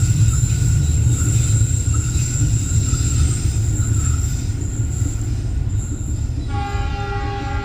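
Container freight train rolling slowly around a sharp curve: a steady low rumble from the wagons, with the wheels squealing thinly against the curved rails. About six and a half seconds in, a steady train horn starts sounding.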